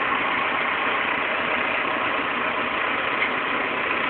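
Backhoe engine running steadily at idle.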